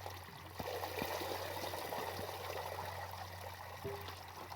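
Water running steadily in a continuous pour or trickle, over a steady low hum.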